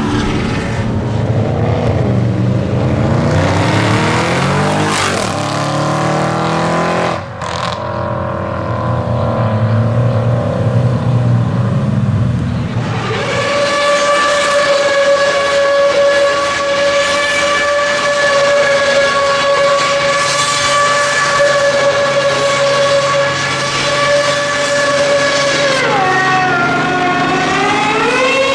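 High-revving performance car engines. Over the first seven seconds the engine note climbs in pitch as it accelerates, then cuts out briefly. From about halfway in, a single steady high-pitched engine note is held at constant revs, then drops and climbs again near the end.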